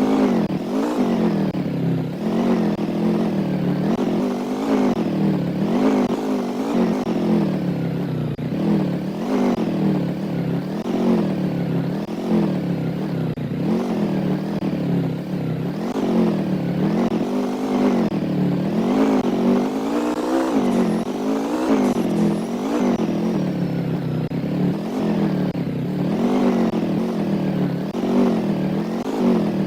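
A vehicle engine running, its pitch rising and falling over and over, about once a second.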